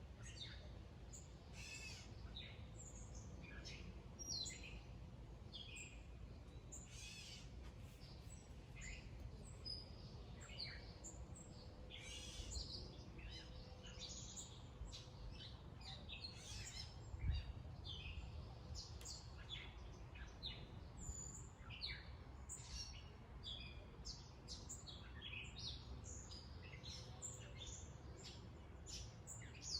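Several birds chirping and singing faintly, with many short overlapping calls throughout over a steady low background rumble. One brief low thump about halfway through.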